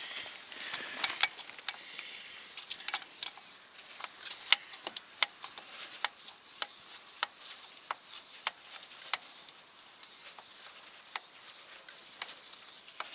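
A series of sharp clicks from hand work on the tractor's oil-change parts, likely while the new oil filter is fitted. They come irregularly at first, then fairly evenly at a bit under two a second.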